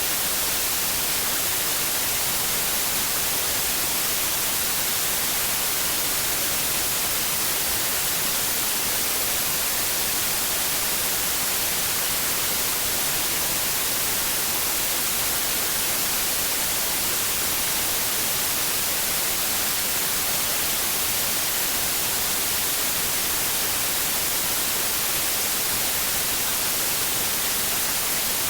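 Steady white noise: an even, unbroken hiss, brightest at the top and unchanging throughout.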